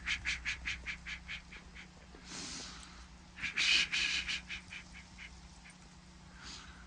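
Quick, even crunching footfalls of a dog running through snow, about five a second, fading as it moves away. A louder scuffle of snow comes about halfway through, then a few faint crunches.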